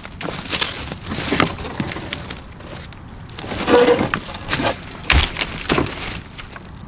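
Dry sticks and twigs cracking and snapping, a string of irregular sharp cracks, as firewood is gathered for a campfire.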